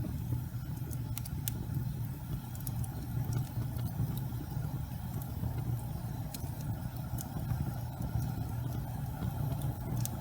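Gas fireplace flames burning with a steady low rumble, with scattered faint ticks and crackles.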